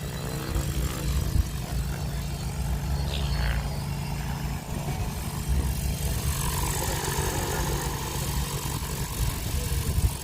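Whiplash 730e electric RC helicopter hovering, its main rotor turning at a low 1400 rpm head speed and making a steady low drone.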